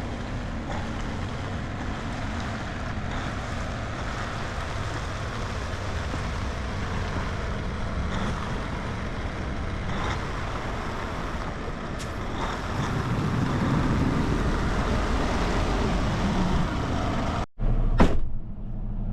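Heavy diesel truck running with a steady rumble that grows louder about two-thirds of the way through. It cuts off abruptly near the end, followed by a single click.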